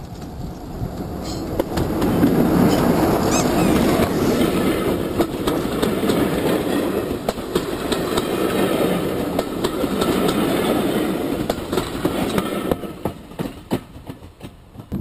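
A diesel locomotive hauling a train of coaches passes close by. The rumble builds over the first two seconds and is loudest as the engine goes past. The coaches follow with wheels clicking over the rail joints, and the sound fades near the end.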